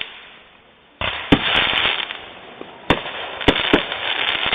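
Fireworks going off: after a quiet first second, a loud burst sets off a stretch of crackling, broken by half a dozen sharp bangs.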